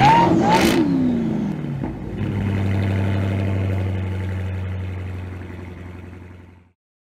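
Muscle-car V8 engine blipped twice in quick succession, the revs falling away, then settling into a steady idle that fades out near the end.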